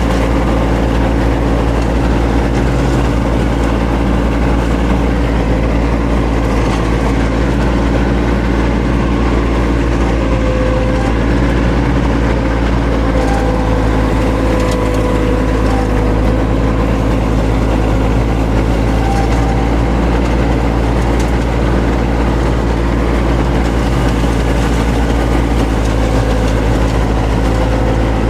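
John Deere X748 ride-on mower's diesel engine running at a steady speed on a test run with its freshly sharpened blades.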